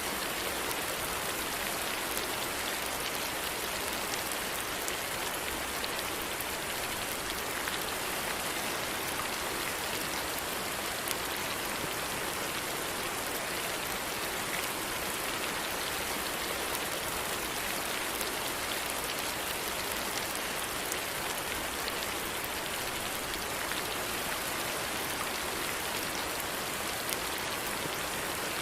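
Steady rain falling, an even hiss with scattered small drop ticks, holding level throughout.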